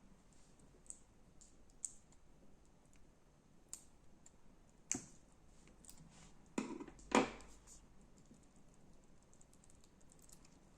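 Slime being worked by hand: scattered small sticky clicks and crackles, with a few louder pops around the middle.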